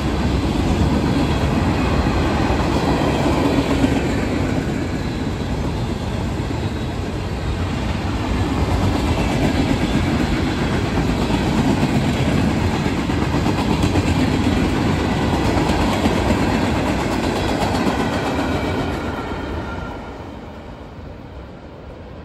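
CSX freight train's open-top gondola and hopper cars rolling past, a steady loud rumble of wheels on the rails that dies down about three seconds before the end.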